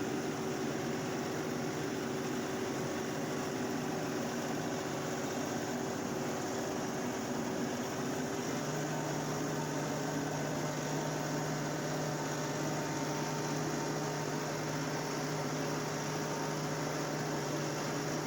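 LS tractor's diesel engine running steadily under load while climbing a steep grade in four-wheel drive with a loader full of logs. Its tone shifts slightly higher about nine seconds in.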